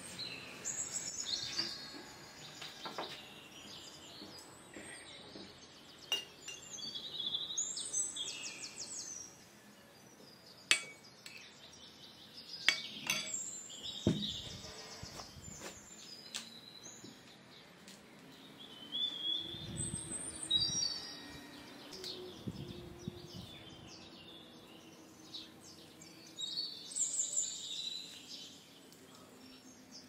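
Songbirds chirping and singing in short repeated phrases, with a few sharp clinks and knocks of tableware and utensils in between.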